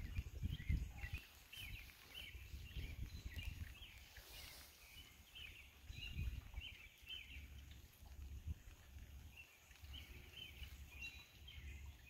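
Birds chirping, a steady run of short high chirps several times a second, over a low, uneven rumble.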